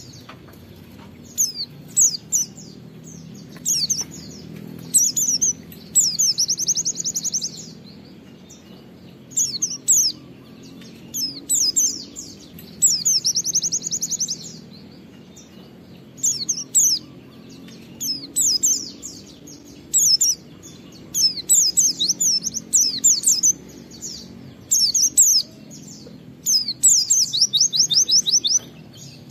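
A pleci (white-eye) singing in short bursts of quick, high, sharp chirping notes, broken three times by a fast trill of rapidly repeated notes.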